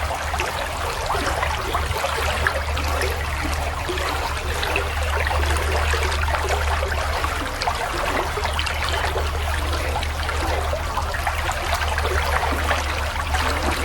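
Steady rushing of running water, as of a small stream, over a constant low rumble.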